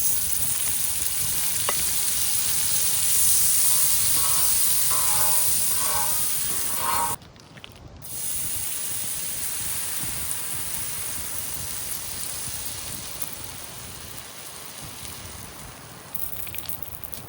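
Pancake batter sizzling in a hot pan over a campfire. The sizzle breaks off for a moment about seven seconds in, then carries on, slowly fading.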